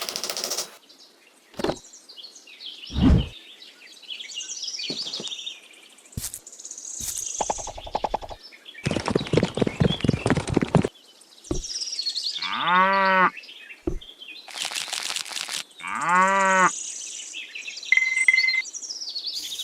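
A cow mooing twice, each moo about a second long, rising and then falling in pitch. Between them come bird chirps, scattered clicks and knocks, and a couple of seconds of rapid buzzing rattle.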